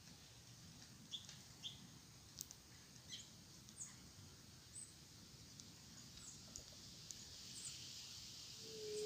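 Faint wild birds chirping: scattered short, high calls a few times a second. A steady high hiss grows louder toward the end.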